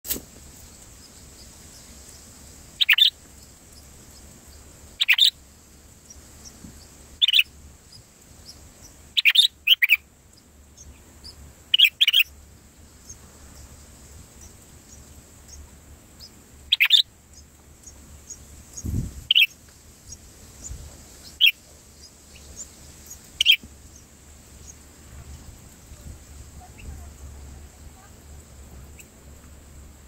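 Short, high bird chirps, about ten single calls spaced one to a few seconds apart, with a low thud about two-thirds of the way in.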